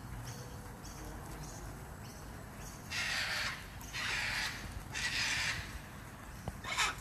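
Cockatoo giving harsh, raspy screeching calls: three in a row about a second apart, each about half a second long, then a shorter one near the end.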